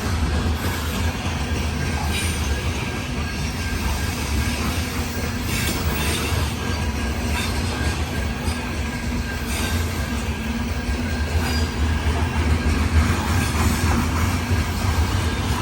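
Loaded grain hopper cars of a long freight train rolling steadily past, with a continuous rumble of wheels on rail, a faint thin wheel squeal and occasional clicks at rail joints.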